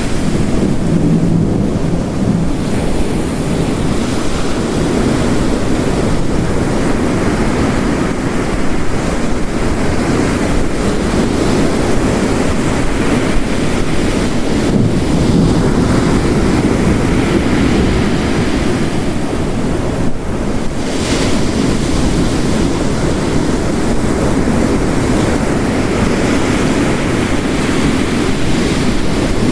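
Ocean waves crashing against the shore, layered with heavy rain into a dense, steady rush of noise that is strongest in the low range.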